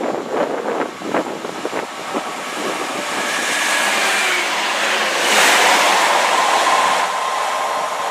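A passenger train passing through a station at speed: a rushing noise of wheels on rail and air builds, is loudest about five seconds in, and is followed by a faint steady whine as the coaches go by. Wind buffets the microphone with sharp bumps at the start.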